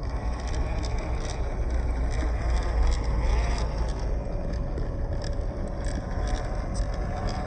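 Small electric motor and gearbox of a 1/16 scale WPL Toyota C24 RC crawler truck whining, the pitch wavering as the throttle changes while it crawls over rocks. Heavy low wind rumble on the microphone lies underneath.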